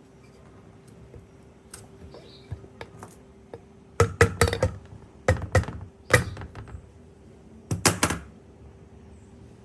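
Sharp knocks and clinks in four quick clusters in the second half, over a steady faint hum.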